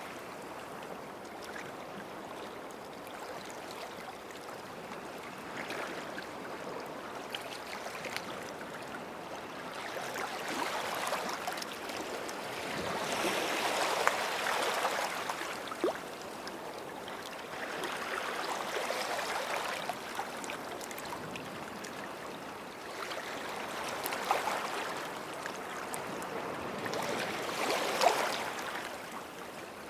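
Small waves lapping and washing on a sandy shore, each swell of wash rising and falling every few seconds, with a light fizzing crackle as the water runs back over the sand.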